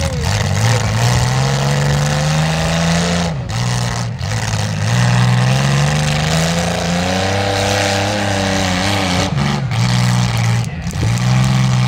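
Demolition derby limousine's engine revving, its pitch rising and falling as the throttle is worked, dropping off briefly a few times.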